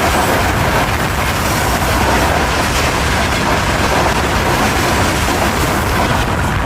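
A train passing close by at speed: a steady, loud rumble and rattle of wheels on the rails.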